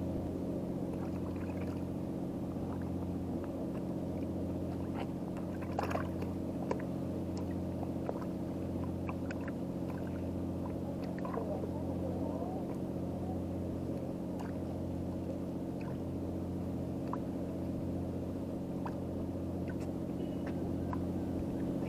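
An engine idling with a steady low hum that swells gently every couple of seconds, with a few small clicks and taps over it.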